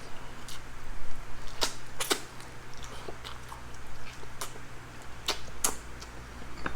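Close-up eating sounds: chewing with irregular sharp mouth smacks and clicks, a few of them louder, over a steady low hum.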